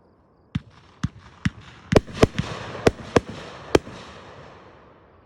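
Consumer fireworks going off: about nine sharp bangs in just over three seconds, with a crackling hiss between them that dies away near the end.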